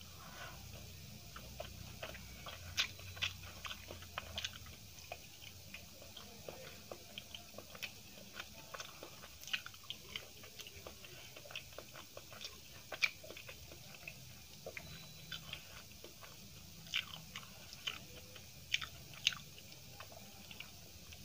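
Close-miked chewing and mouth sounds of someone eating rice, potato curry and fried amaranth leaves by hand: irregular sharp clicks and soft wet chewing noises, one louder click about halfway through.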